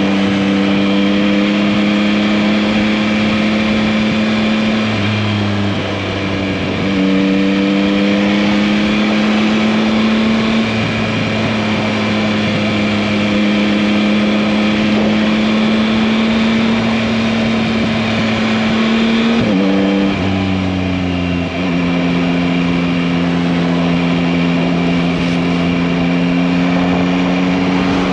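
2021 Yamaha MT-09's 890 cc inline three-cylinder engine running under way at a steady cruise, its note climbing slowly. The note breaks and steps in pitch twice, about six and twenty seconds in, with wind and road noise underneath.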